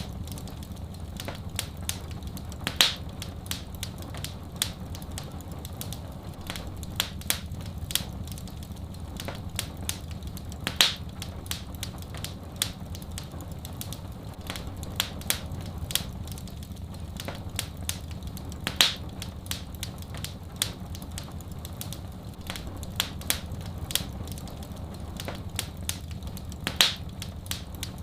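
Wood fire in a fireplace crackling steadily with many small snaps and louder pops about every eight seconds, over a steady low rumble.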